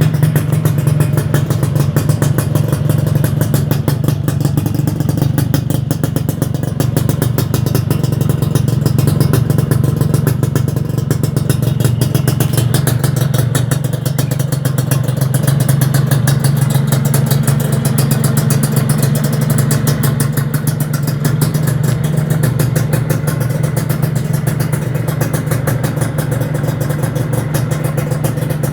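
Two-stroke engine of a 2004 Suzuki Satria 120 (LSCM) motorcycle idling steadily through a newly fitted AHM exhaust, with a crisp exhaust note.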